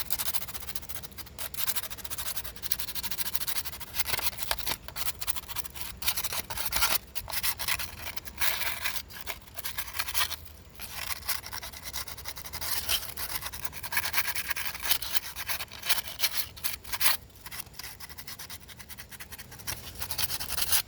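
Rapid back-and-forth scraping on the engine's metal around the ignition coil mounts, cleaning the contact surfaces to get a better ground. The strokes pause briefly twice.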